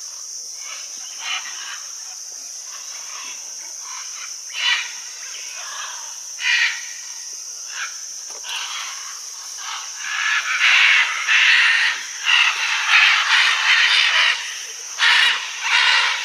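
A flock of macaws squawking: harsh calls, scattered at first, then a dense run of loud overlapping calling from about ten seconds in, over a steady high hiss.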